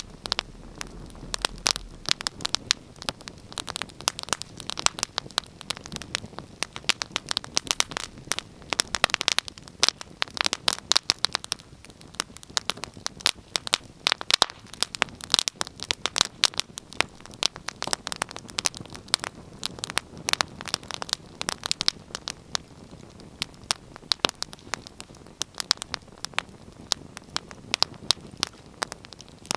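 Wood fire crackling: a steady run of sharp, irregular pops and snaps over a soft hiss of burning.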